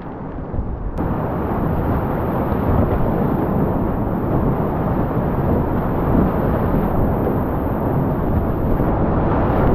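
Whitewater rushing loudly through a Class IV rapid, a dense steady noise that cuts in abruptly about a second in.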